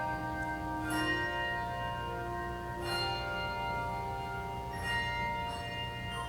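Handbell choir playing a slow passage: three chords struck about two seconds apart, each left ringing and fading into the next.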